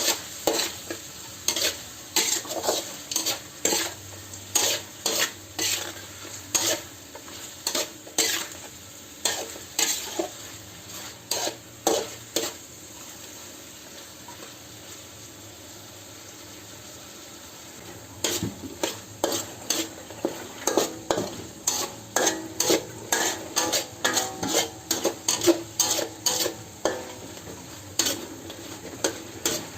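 Chicken and pineapple stir-frying in a hot pan: a steady sizzle under a metal spatula scraping and knocking against the pan about one or two times a second. The stirring stops for several seconds in the middle, leaving only the sizzle, then resumes faster.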